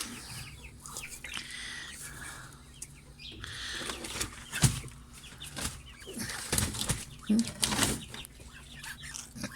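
Chickens stirring in a coop: bursts of wing flapping and brief clucks, busiest in the second half.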